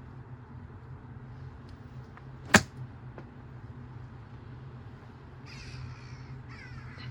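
A single loud, sharp crack about two and a half seconds in, over a steady low hum. Near the end come two short, harsh caws like a crow's.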